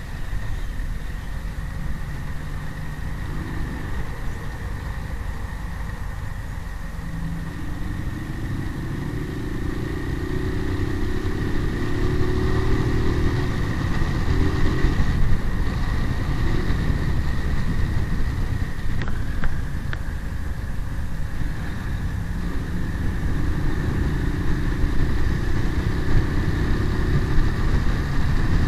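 Rouser 180 motorcycle's single-cylinder engine running under way, with road noise; the engine note climbs as it speeds up about eight seconds in and again near the end.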